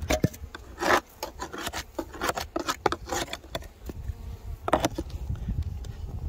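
Irregular scraping and rubbing strokes on a wooden beehive, with a few sharp clicks, as the hive entrance is cleared out.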